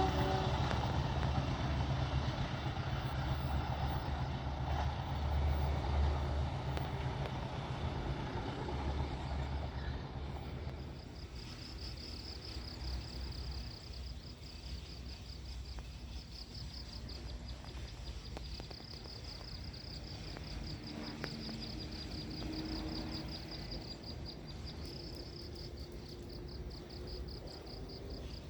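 Diesel locomotive's low rumble fading away over the first ten seconds or so, then insects chirping in a steady, fast-pulsing high trill.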